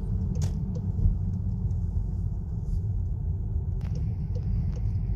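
A car driving slowly, a steady low rumble of engine and tyres, with a few faint ticks.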